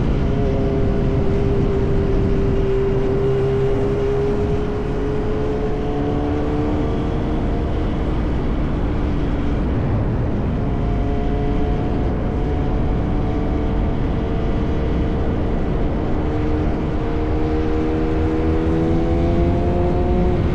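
Yamaha R1 inline-four sportbike with an SC Project aftermarket exhaust running at steady cruising revs. The engine note drifts slowly up and down in pitch as the throttle eases on and off, over a steady bed of wind and road noise.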